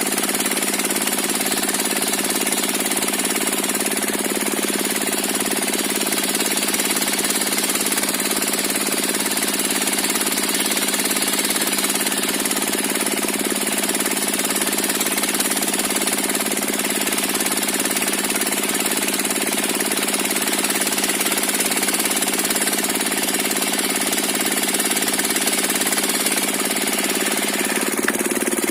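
Diesel engine of a circular sawmill rig running steadily, a loud, unchanging mechanical din.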